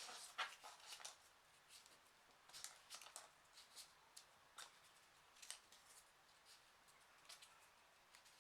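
Faint, scattered rustles and crisp clicks of folded printer-paper 3D origami pieces being handled and pushed into the pockets of a row of the model.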